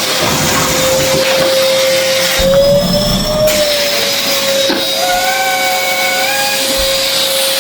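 Numatic Henry tub vacuum cleaner running with a steady whine and the hiss of suction; about a third of the way in the whine rises a little in pitch for about a second, then settles back.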